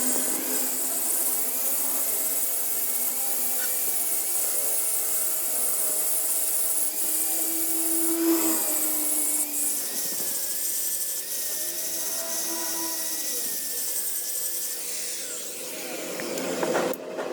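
An electric power tool running steadily: a motor whine that wavers up and down in pitch under a strong high hiss. The sound breaks off abruptly near the end.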